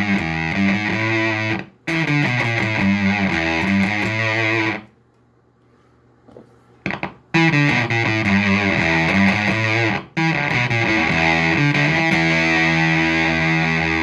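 Fender Esquire electric guitar played through a splatty 'doom and gloom' fuzz pedal into a clean amp: distorted riffing that cuts off sharply twice, with a pause of about two seconds near the middle broken only by a few faint string clicks, then long fuzzed chords held to the end.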